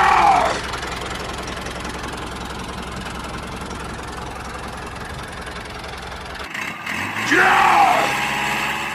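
Small engine running steadily; its sound changes about six and a half seconds in. Two loud falling whistles, one right at the start and one about seven seconds in, are the loudest sounds.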